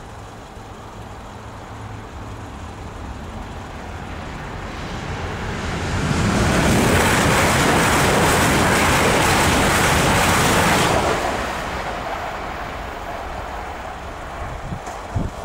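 Passenger train passing at speed: its rumble and wheel-on-rail noise build up over several seconds, hold loud for about five seconds as the coaches go by, then die away.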